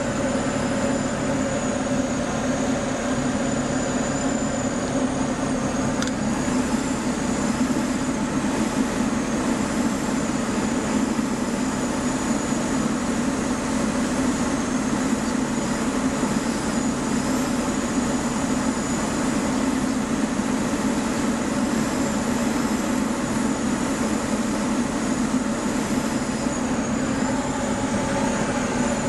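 Light aircraft's engine and propeller running steadily, one unchanging drone with no change in power.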